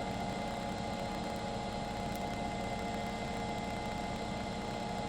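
A steady mechanical drone: an engine running evenly, a low rumble with a few steady tones over it.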